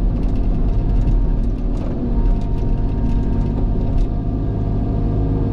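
Cat excavator's diesel engine running steadily under load while its bucket digs into driveway gravel, with faint scattered clicks.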